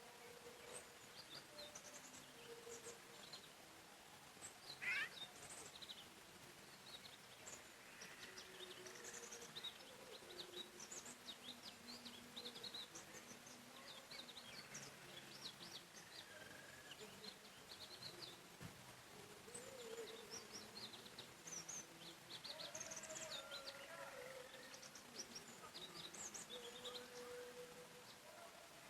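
Forest birdsong: many small birds chirping and twittering at once, with lower, longer calls underneath. One louder rising call comes about five seconds in.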